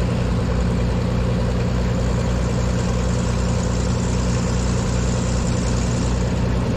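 Cessna T310R's twin turbocharged piston engines idling at about 1,000 RPM during taxi: a steady, even drone.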